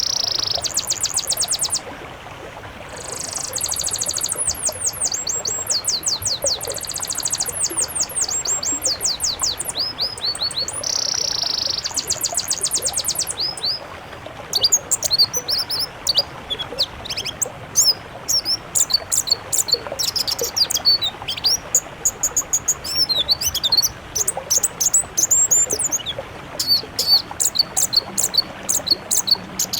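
Songbirds of several species singing: dense, rapid high-pitched chirps and trills, changing after about fourteen seconds to more varied sweeping whistles and separate chirps.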